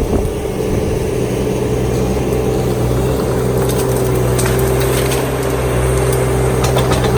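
Bobcat T-650 compact track loader's diesel engine running steadily with a constant whine, while branches crack and snap against the machine from about three and a half to five and a half seconds in.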